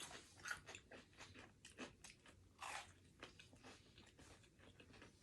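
Faint chewing with irregular crisp crunches, from eating crunchy fried onion rings.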